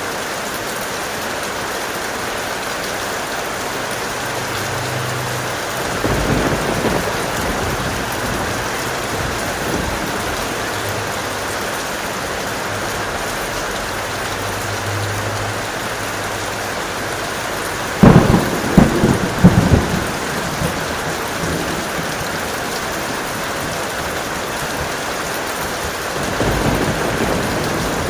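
Strong, steady rain with thunder. A rumble comes about six seconds in, a sharp, loud thunderclap with several cracks about two-thirds of the way through, and another rumble near the end.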